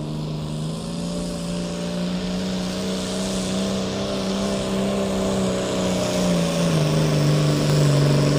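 Turbocharged pulling-tractor engine running hard under load, holding a steady pitch and growing louder, then dropping in pitch near the end.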